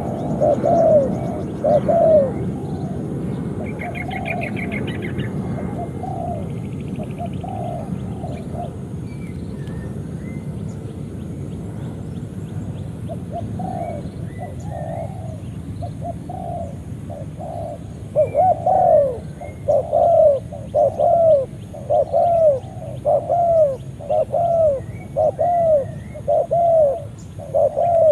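Spotted dove (tekukur) cooing: repeated low, arched coo notes. They come in scattered groups early on, stop for a few seconds, then from about eighteen seconds in run loudly at about one a second. Faint chirps of small birds sound above them.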